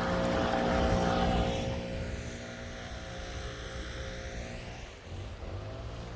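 A distant engine drone, a steady hum that drops in level about a second and a half in.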